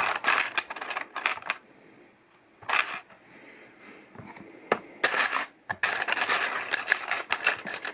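Small plastic LEGO pieces clicking and clattering as they are handled and pressed together, in several spells of rattling with short pauses between.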